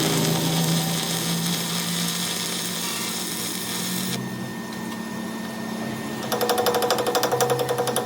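Workshop power tool or machine at work on a pinion gear. It gives a steady hiss for about the first four seconds, then a fast, even buzzing rattle starting near the end.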